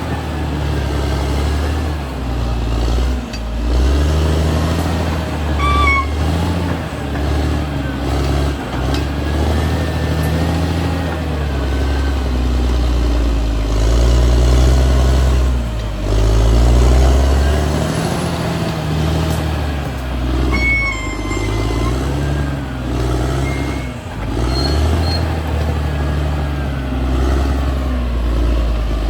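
Caterpillar D6R XL bulldozer's diesel engine working hard, its pitch rising and falling again and again as it revs up and eases off. Two brief high squeals cut through, about a quarter of the way in and again about two-thirds of the way in.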